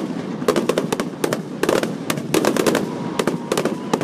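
Aerial fireworks shells bursting overhead in rapid clusters of sharp bangs and crackles.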